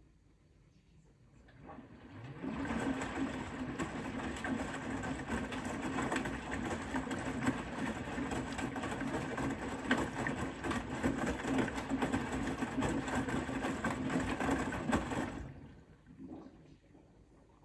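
Bosch Serie 4 WAK20260TR washing machine's drum motor spinning up with a rising hum about two seconds in. It turns the drum steadily for about thirteen seconds with many small knocks, then stops: one wash-tumble stroke.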